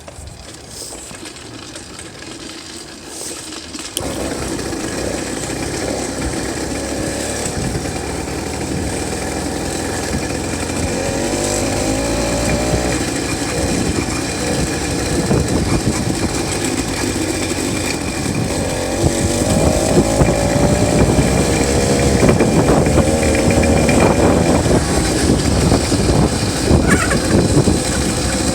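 66cc two-stroke bicycle engine kit running; it gets abruptly louder about four seconds in, and its pitch rises and falls now and then as it is revved.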